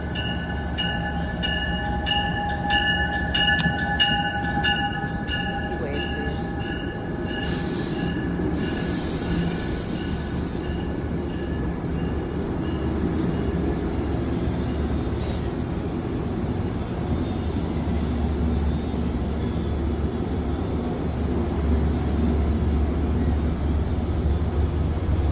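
Commuter train coming into a station platform. Wheels squeal with steady high tones over a fast, even pulsing for the first several seconds. A burst of hiss comes about eight seconds in, then a low rumble grows louder near the end.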